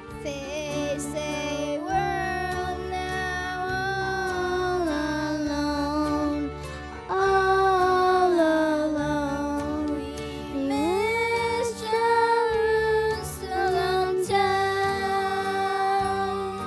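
Singing with instrumental accompaniment: voices hold long notes of a slow melody, stepping from one pitch to the next every second or two.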